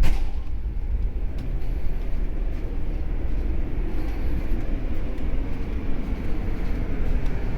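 Steady low rumble of a large car ferry under way, its engines and hull droning without letup, with a short knock right at the start.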